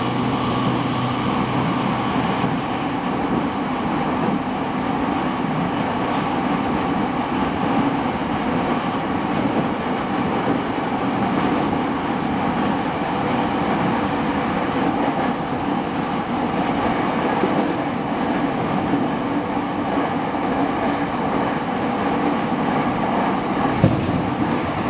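Running sound inside a motor car of a renewed JR East E217 series electric train at steady speed: continuous rumble of wheels on rail with steady motor hum. A low hum drops away about two seconds in, and a single sharp knock comes near the end.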